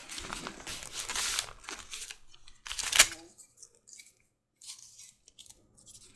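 Leather pieces being handled and pressed together during contact-cement gluing: rubbing and scraping, with one sharp knock about three seconds in.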